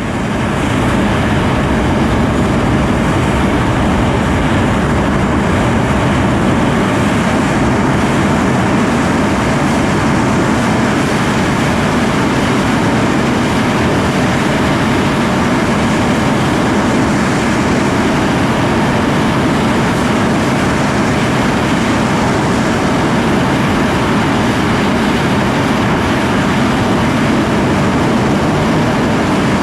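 Twin Rolls-Royce Avon turbojets of an English Electric Lightning F6 running on the ground at steady high power, a loud even jet roar that swells up over the first second and then holds constant.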